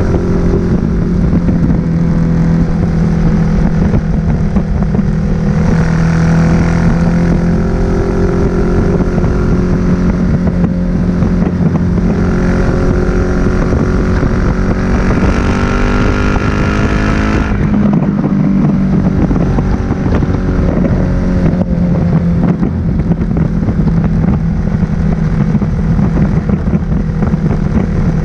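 Suzuki SV1000S's 90-degree V-twin running through an aftermarket Leo Vince exhaust, heard from on the bike under way. The note climbs steadily under acceleration, falls off sharply about halfway through, then settles into a steady cruise.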